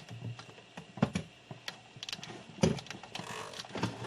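Irregular clicks and knocks of cables and plastic connectors being handled and plugged in, with a brief rustle about three seconds in.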